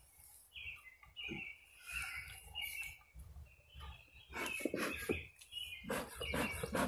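Small birds chirping, short high calls repeated every half second or so. From about four seconds in, a run of close rustles and knocks as a bee smoker is picked up and handled.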